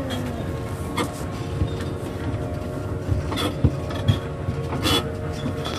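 Rumble of a miniature zoo train car with sharp metallic clinks and knocks, a few of them standing out about a second in and again near the middle and end.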